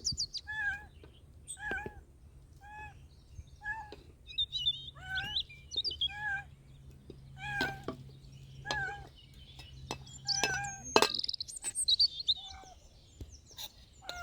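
A small animal giving short, high, pitched cries over and over, about one a second, with bird chirps in places and a sharp knock about eleven seconds in.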